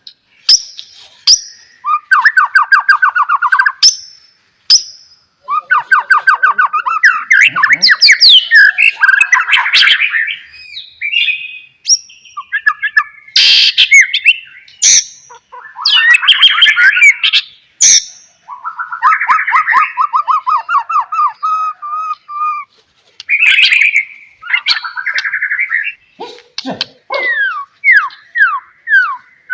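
White-rumped shama (murai batu) singing a loud, varied song in phrases of rapid trills and whistled notes, with short pauses between phrases and a run of quick downward-sliding notes near the end.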